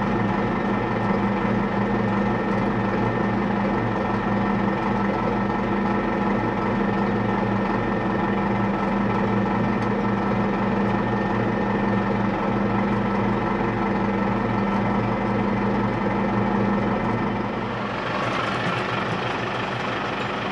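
AgKing compact tractor engine running steadily; its note changes near the end.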